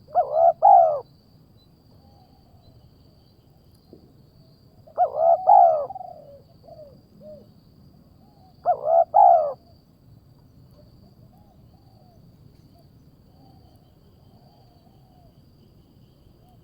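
Bird calling: three loud bursts of two or three short arched notes each, about four seconds apart, with fainter calls between them.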